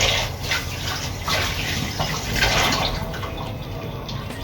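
Running water splashing, with an uneven hiss that comes and goes.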